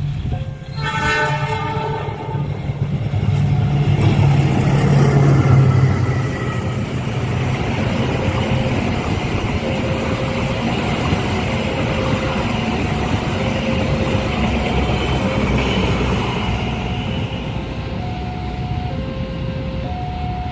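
Train horn sounding once briefly about a second in, then a long train passing close by, its rumble and wheel noise loudest around four to six seconds in and running on steadily after. The level crossing's electronic alarm keeps up its two alternating tones throughout.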